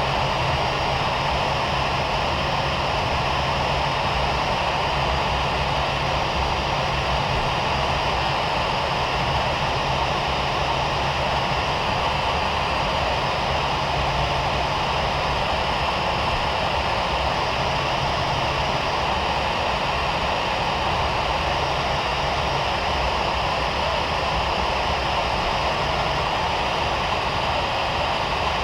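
Steady cabin noise inside a Boeing 737 MAX 9: its CFM LEAP-1B jet engines running evenly at low power, with a constant low hum and airflow hiss and no run-up.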